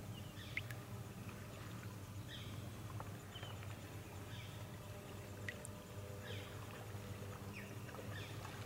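Quiet riverside ambience: a bird calling repeatedly in short, falling chirps about once a second over a faint, steady low hum.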